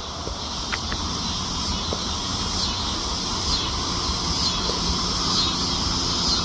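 Steady high-pitched insect chorus from the woods, with a faint downward-sweeping call repeating about once a second over it, and a low rumble underneath.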